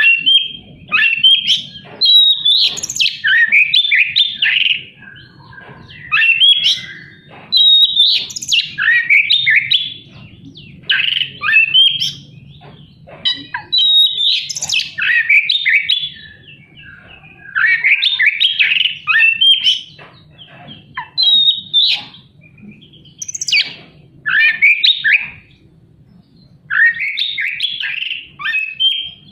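Oriental magpie-robin (kacer) singing a loud, fast, varied song with harsh notes, delivered in bursts of one to two seconds with short pauses between them.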